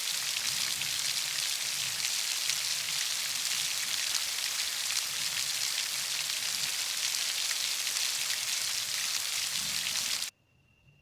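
Heavy rain pouring steadily, a dense even hiss that cuts off suddenly about ten seconds in, leaving only a faint, thin high steady tone.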